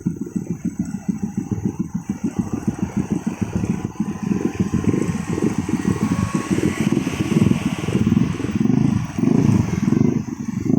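Motorcycle engine running close by, its low throb pulsing quickly at first and then surging in slower uneven swells.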